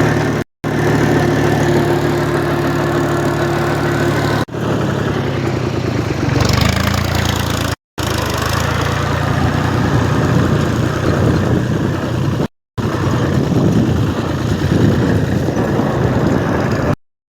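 Tractor engine running steadily. The recording is broken by several abrupt cuts, and the engine's note changes after the second one.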